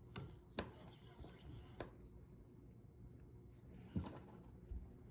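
A few light clicks and knocks, scattered and irregular, the loudest a little after halfway, followed by a soft low thud.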